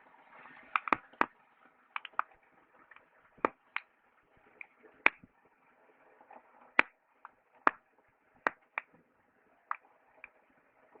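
Wood campfire crackling: sharp, irregular pops and snaps, one to three a second, over a faint hiss of burning.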